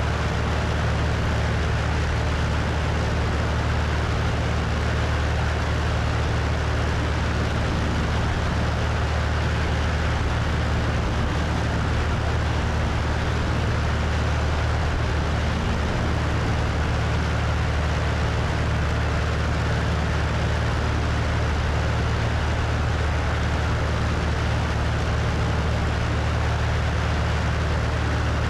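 Cessna 172's piston engine and propeller running steadily in flight, a low even drone under loud rushing wind noise on a wing-mounted microphone.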